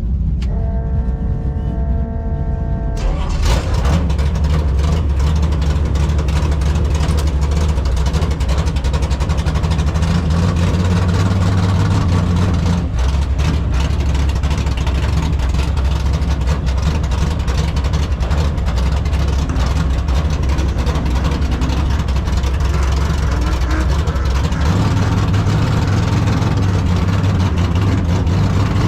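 Drag car's 383 stroker V8 running loud and steady with a deep rumble. A high, steady multi-note tone sounds over it for the first three seconds, and the engine comes in fuller and louder after that.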